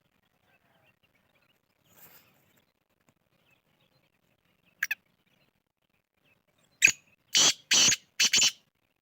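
Black francolin calling: a short sharp double note about five seconds in, then near the end a harsh, grating phrase of one sharp note followed by three rasping syllables.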